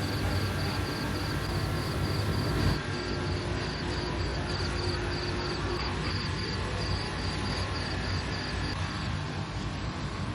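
Roadside night ambience: a steady low rumble with a high, even insect chirping about four times a second that stops near the end.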